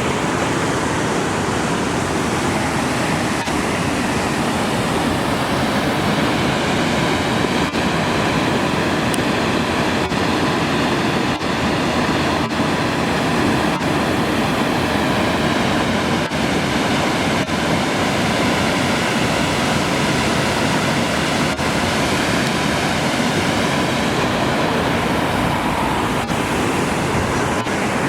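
Lanternman's Falls waterfall pouring steadily, an even rush of falling water.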